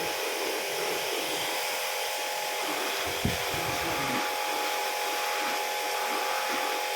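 A small electric machine running steadily, an even hiss with a constant hum of several fixed tones, and a single knock about three seconds in.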